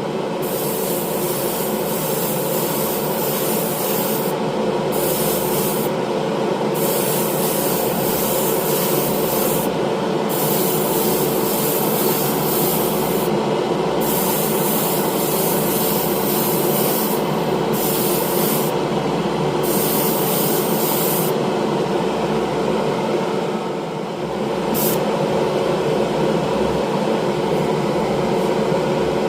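Compressed-air paint spray gun hissing as clear coat is sprayed on, in repeated passes that break off briefly several times, over the steady hum of its air compressor.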